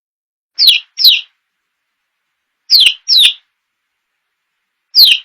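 Bird-like chirps in pairs, each chirp falling quickly in pitch, three pairs about two seconds apart with complete silence between.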